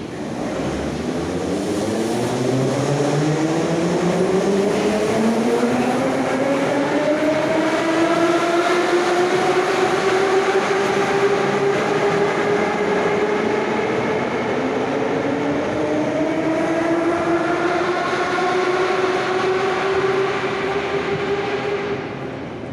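Moscow Metro 81-717 'Nomernoy' train running in the tunnel, its traction motors whining in a rising pitch as it picks up speed over about ten seconds, then holding before a second rise, over the steady rumble of the wheels.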